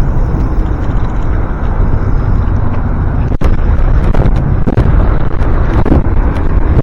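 Wind buffeting an action camera's microphone while cycling: a loud, steady, deep rush with faint clicks and rattles scattered through it, and a momentary dropout about three and a half seconds in.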